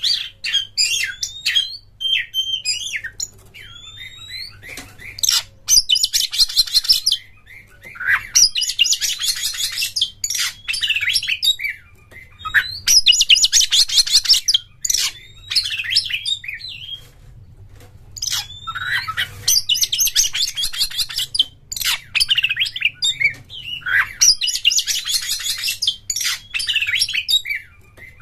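Oriental magpie-robin singing: a varied run of whistled notes and glides, broken every few seconds by bursts of fast, rattling chatter about a second long.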